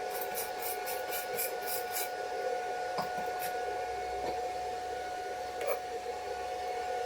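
Brisk scraping strokes on metal, about three or four a second, stop after about two seconds. A steady electrical hum runs underneath, and a few light knocks follow.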